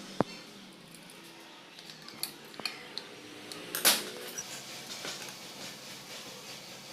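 Metal tools and engine parts clinking and clattering on a workbench in a string of separate sharp knocks, the loudest about four seconds in.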